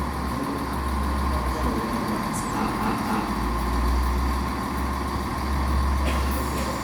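Steady low rumble of a diesel train's engine idling.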